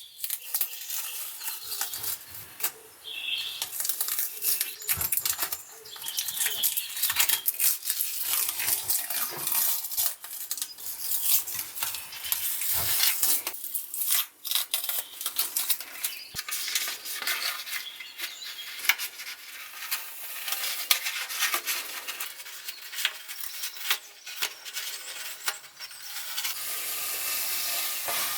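Hand work on a cast-iron piece: steady scratchy scraping and rubbing, broken by many small clicks and taps, pausing briefly now and then.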